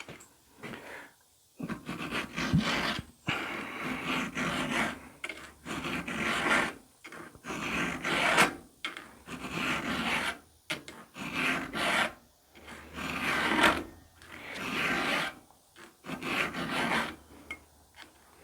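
A file rasping across a saw-chain cutter tooth in a steady series of push strokes, about one a second, while a chainsaw chain is sharpened by hand.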